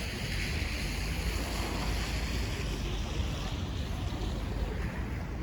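Wind buffeting the microphone in a snowstorm: a steady low rumble under an even hiss.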